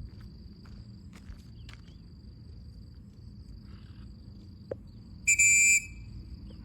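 Crickets or other insects chirring in one steady high thin tone. About five seconds in comes a loud, shrill whistle lasting half a second, the loudest sound here.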